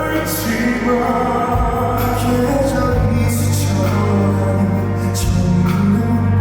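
Loud live concert music: a slow ballad played by a band, with singing.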